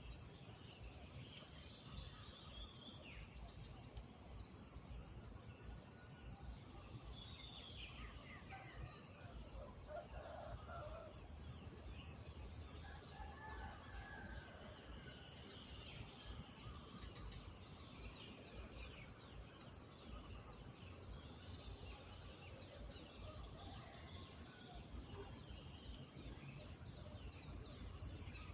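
Village morning ambience: small birds chirping now and then over a steady high insect drone, with domestic fowl calling a few times in the middle.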